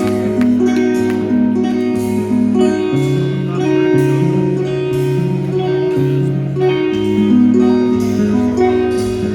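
Live rock band playing an instrumental passage: a guitar solo over sustained bass and guitar notes with steady drum and cymbal hits.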